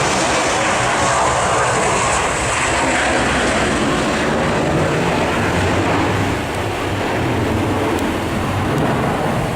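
Airbus A318 airliner's two Pratt & Whitney PW6000 turbofans at high power on takeoff: a loud, steady jet rush as the plane passes.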